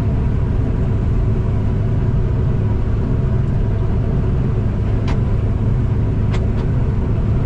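Steady low engine drone of farm harvest machinery running, with a few sharp clicks about five seconds in and twice more a little later.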